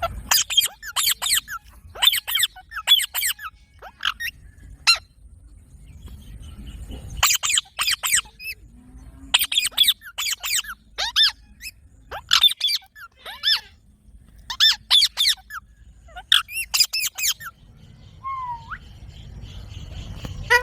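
Green parrots calling: short, harsh screeches in quick clusters of two to four, again and again with brief pauses, and a short rising whistle near the end.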